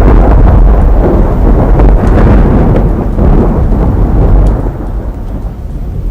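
Model train of the JR 215 series running on the track, a loud rumble that dies down from about four and a half seconds in.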